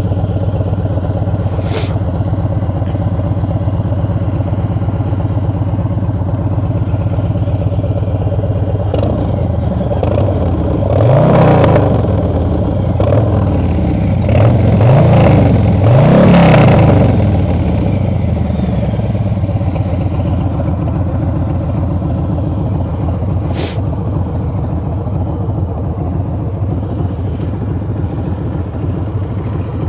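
Harley-Davidson Street Bob 114's Milwaukee-Eight 114 V-twin running through an aftermarket exhaust, idling just after start-up. Between about ten and seventeen seconds in, it is revved in a few throttle blips, each rising and falling in pitch, before it settles back to a steady idle.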